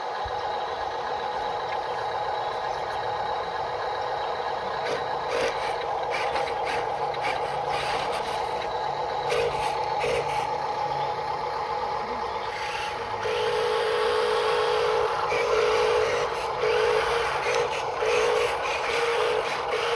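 Small electric motors and gearboxes of radio-controlled construction models whining steadily, with a higher, pulsing tone that gets louder and more frequent about two-thirds of the way in.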